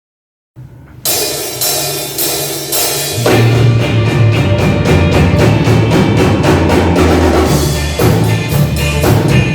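A rock band playing live, starting a song's intro: after a brief dead silence, a drum kit keeps a steady beat about twice a second, and bass and guitars come in heavily about three seconds in.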